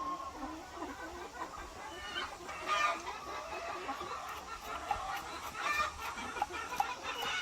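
A flock of hens clucking, with short, irregular calls overlapping and a few louder ones.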